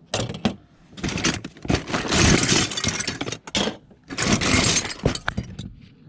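Metal kitchen utensils and cutlery clattering and jangling as a box of them is rummaged through, in two long stretches of rattling with sharp clinks.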